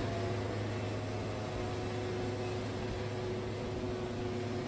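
Wood-Mizer band sawmill running steadily while its band blade cuts through a red cedar log: an even engine drone with a constant low hum and a few steady higher tones.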